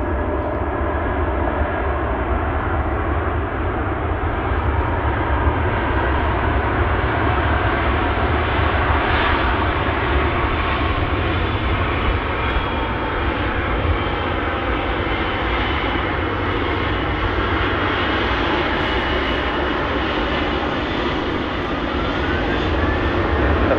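Jet airliner's engines running as it passes the airfield, a steady roar that grows brighter over the first half with faint thin whining tones on top.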